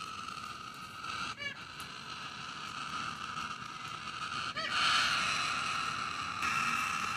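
A baby corella's begging call: a continuous harsh, rasping wheeze, the sound a young cockatoo makes when it still wants its mother's care. Two brief sharp chirps cut through it, about a second and a half in and again just past the middle.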